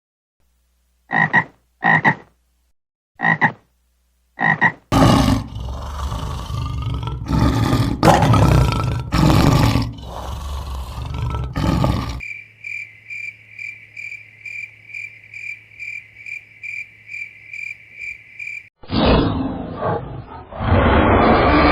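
A series of different animal calls: four short calls, then several seconds of loud harsh calls, then a steady run of even, high-pitched pulses at two or three a second, and loud harsh calls again near the end.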